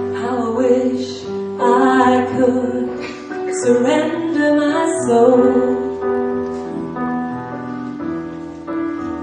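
A woman singing with live piano accompaniment. Her voice drops out about six seconds in, leaving the piano playing on its own.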